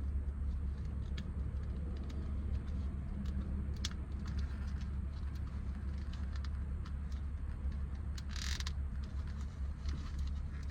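Faint clicks and handling noises of plastic interior trim as the shift boot's retaining tabs are pushed and pulled, with a brief scraping rustle near the end, over a steady low hum.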